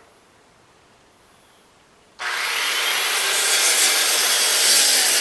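About two seconds in, a power saw starts abruptly and cuts steadily through wood for about three seconds.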